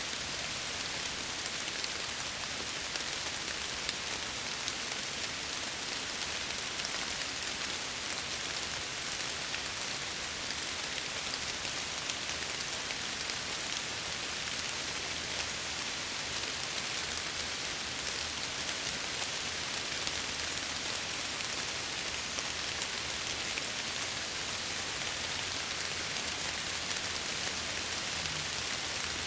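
Steady rain falling against window glass: an even hiss with many small drop ticks.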